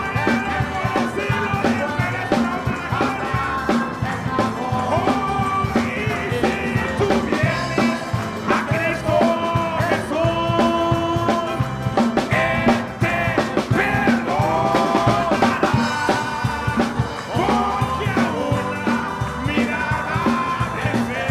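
Upbeat praise music played by a band: a melody line over a steady, driving beat.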